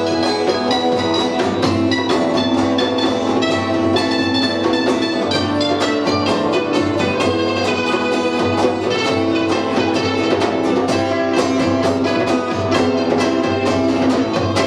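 Punk rock band playing live in an instrumental stretch of a song: guitars and bass over a steady drum beat.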